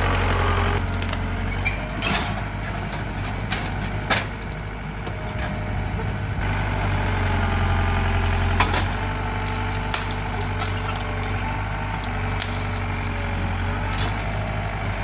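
Engine of a loader tractor running steadily, with a few sharp cracks of breaking wood as tree trunks and branches are handled.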